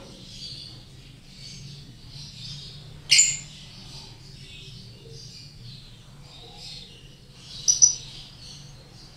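Lovebirds chirping continuously in raspy, broken calls, with two sharp, loud shrill calls, one about three seconds in and one near the end.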